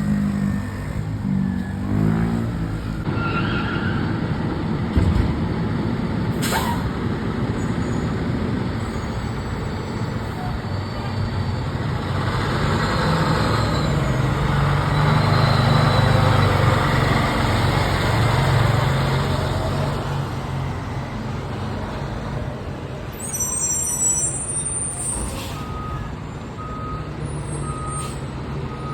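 Fire truck's diesel engine running, growing louder through the middle as the rig moves, with short air-brake hisses. Near the end a backup alarm beeps about once a second.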